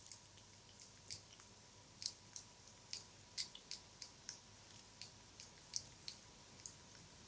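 Close-miked ASMR wet mouth sounds: faint, irregular moist clicks and smacks, about two or three a second.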